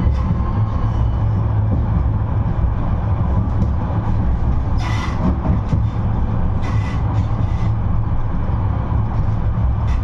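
71-628-02 tram running between stops, a steady low rumble of wheels on rails and running gear. Short hissing bursts come through about five seconds in and again around seven seconds in.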